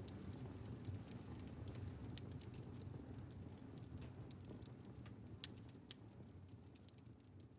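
Wood fire crackling in an open fireplace, with irregular sharp pops over a low rumble. It fades out toward the end.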